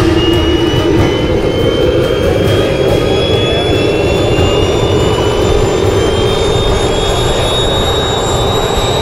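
Model jet's small gas-turbine engine running, its high whine rising slowly and steadily in pitch as the turbine spools up over a continuous roar.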